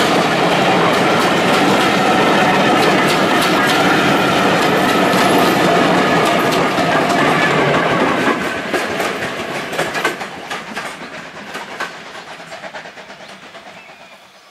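Vintage LMS passenger coaches rolling past close by, their wheels clicking steadily over the rail joints. From about eight seconds in the sound fades away as the last coach passes and the train moves off.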